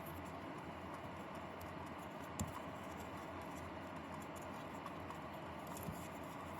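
Light handling of small parts during assembly, with a sharp click about two and a half seconds in and a softer one near the end, over a steady low room hum.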